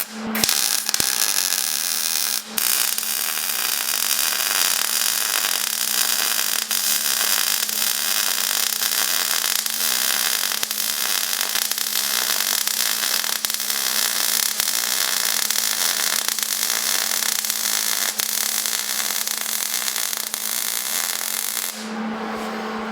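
Electric arc welding: a continuous crackling sizzle from the welding arc, pausing once briefly about two and a half seconds in and stopping about a second before the end, over a steady low hum.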